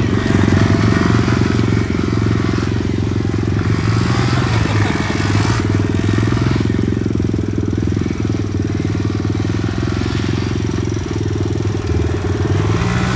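Mini bike's small single-cylinder engine running at a steady, moderate speed, its pitch rising near the end as the throttle opens.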